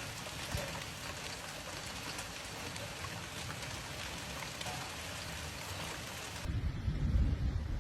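Steady rain falling, with individual drops ticking close by. About six and a half seconds in, it cuts abruptly to a louder low rumble.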